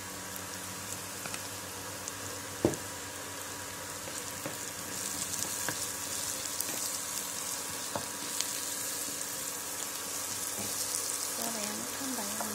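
Chopped onions, chillies and spices sizzling in hot oil in a non-stick wok while being stirred with a wooden spatula; the sizzle grows louder about halfway through. A single sharp knock sounds a few seconds in.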